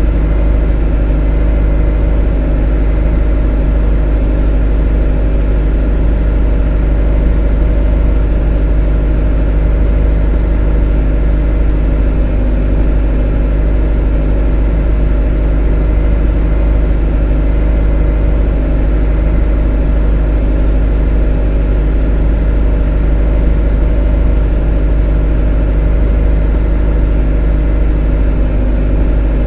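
A motor running steadily at a constant speed: a deep, even hum with a set of steady tones above it and no change in pitch or level.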